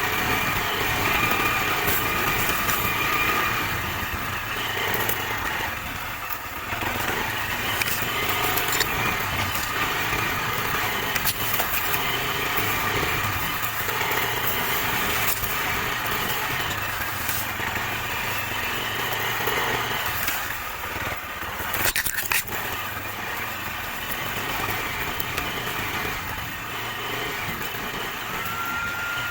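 Engine of a Chinese Racer Panther motorcycle running while it is ridden, its note rising and falling with the throttle. Near two-thirds of the way through comes a brief clatter.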